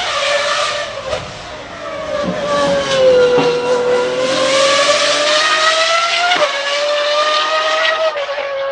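High-performance car engine at high revs, its pitch dipping and then climbing steadily, with a sudden drop about six and a half seconds in, like a gear change, before it climbs again.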